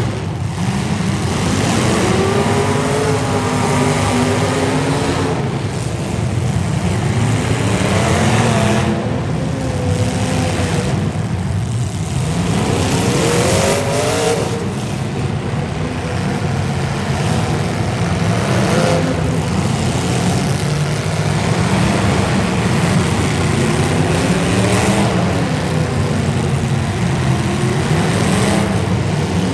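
Demolition derby cars' engines running loud and revving, the pitch rising and falling again and again.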